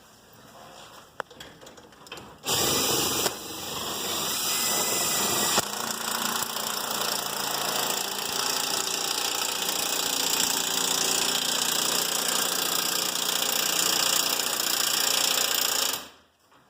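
Power drill running steadily under load while setting a lag bolt to fasten the garage door rail to the wall. It starts about two and a half seconds in and stops abruptly near the end, after some light handling noise.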